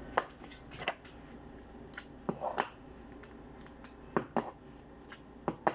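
Light, scattered clicks and taps, some in quick pairs, from scooping the last of the yogurt out of its container into the blender jar.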